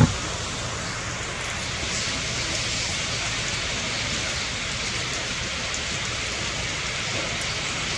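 Steady rain falling, an even hiss with faint drops ticking through it, and a single short thump right at the start.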